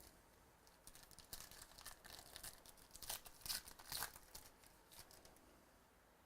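Faint crinkling and tearing of a trading-card pack wrapper being opened by hand, a run of short crisp rustles from about a second in until just past five seconds.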